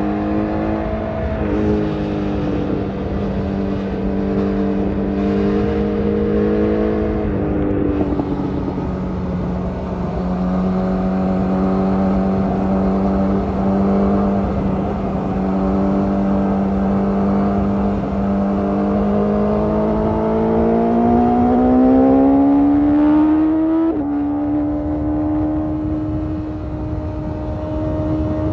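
BMW S1000RR inline-four engine, freshly tuned, running through an Akrapovic carbon exhaust at a steady engine speed. The pitch steps down about a quarter of the way in, climbs for a few seconds, then drops suddenly about three-quarters through.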